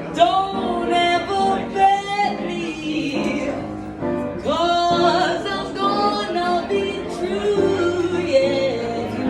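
Music: a song sung with instrumental accompaniment, the voice holding long notes and sliding between them.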